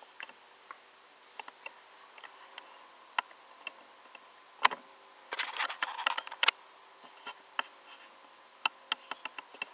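Scattered small clicks and taps from a 1:18 scale diecast model car being handled, with a loud click a little under five seconds in and a quick flurry of clicks just after.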